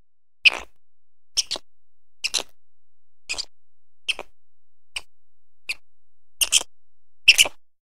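Quokka biting and chewing a green leaf: short crisp crunches about once a second, some in quick pairs, with silence between them.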